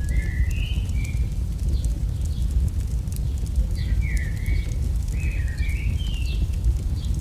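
AI-generated campfire sound: a steady low rumble with scattered small crackles and pops. Short bird chirps come in near the start and again from about four to six and a half seconds in.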